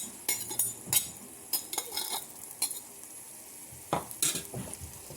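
A utensil scraping and knocking irregularly against a frying pan as sautéed fish is tipped in and stirred through peppers and onions, over a faint sizzle of frying.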